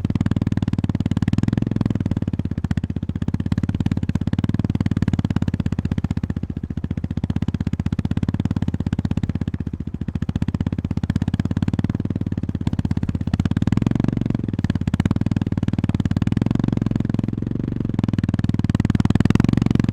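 Honda GB350's 348 cc air-cooled single-cylinder engine thumping along at low revs on a rough gravel forest road. The note swells and eases as the throttle opens and closes, and it is loudest near the end.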